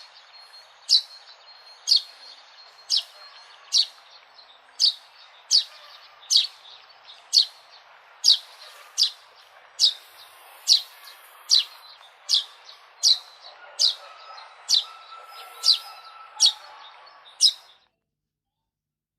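A sparrow chirping over and over, one sharp, high chirp about once a second, over a faint background hiss. The sound cuts off abruptly near the end.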